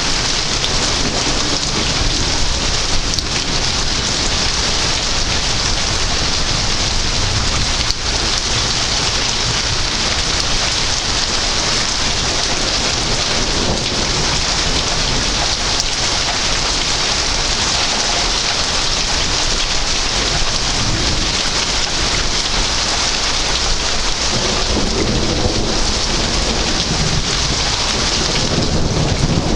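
Heavy rain falling steadily in a thunderstorm, a dense, even hiss of drops, with low thunder rumbling underneath.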